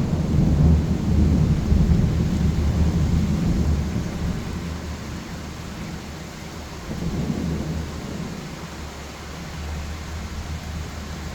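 Thunder rolling over steady rain: a loud low rumble in the first few seconds slowly dies away, with a smaller swell of rumble about seven seconds in, under an even hiss of rainfall.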